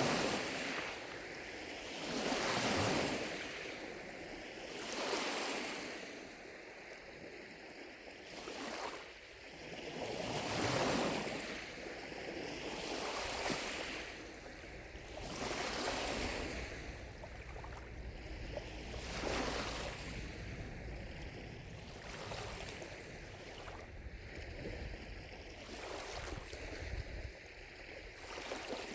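Small lake waves lapping and washing onto the shore, one soft surge every two to three seconds, with faint distant cicadas droning steadily underneath.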